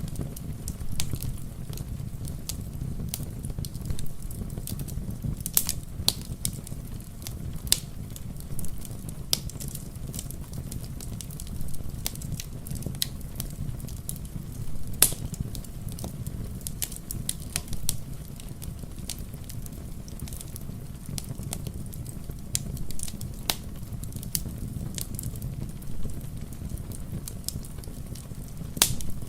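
Wood fire crackling, with frequent small pops and a few louder snaps, about 6 and 15 seconds in and near the end, over a steady low rumble.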